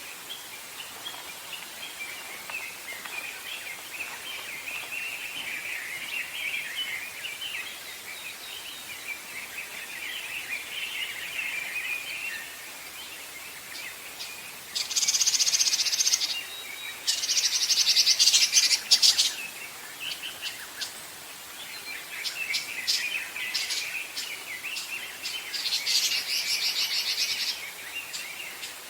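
Wild songbirds singing: a steady, high twittering chorus, broken about halfway through by two loud, rapid, very high trills, with another trill near the end.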